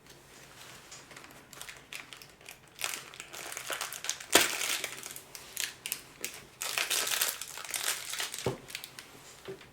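Packaging crinkling and rustling in the hands in irregular bursts, loudest a little after four seconds in and again from about six and a half to eight seconds in.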